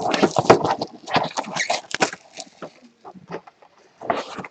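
Trading card packaging being handled and opened: a run of crinkling, scratching and rustling, busiest in the first two seconds and thinning out after.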